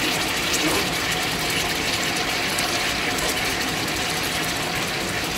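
Diced tomatoes sizzling steadily in hot oil with fried onions and spices in a large aluminium pot, with small scraping clicks from a wooden spoon stirring them.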